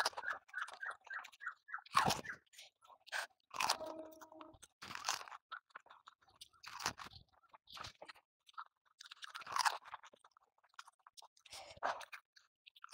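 Close-up mouth sounds of eating pani puri, the crisp hollow fried shells crunching and being chewed. A quick, even run of chews at first gives way to scattered separate crunches.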